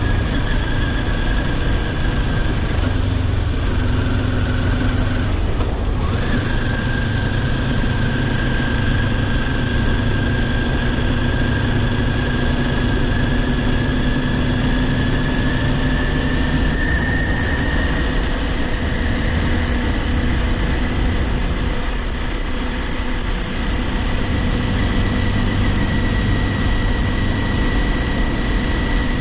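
Kawasaki Ninja 400's parallel-twin engine running steadily under way, heard from the rider's position, with a steady high whine over dense wind and road noise. The whine breaks briefly about six seconds in and creeps up in pitch in the second half as the bike speeds up a little.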